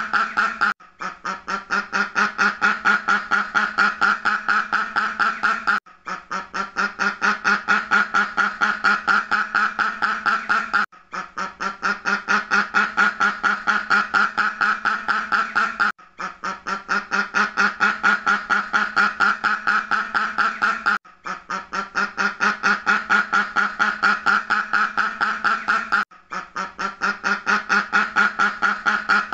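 Ducks quacking in a fast, unbroken run of many quacks a second, a stretch of about five seconds repeated over and over with a brief break between repeats.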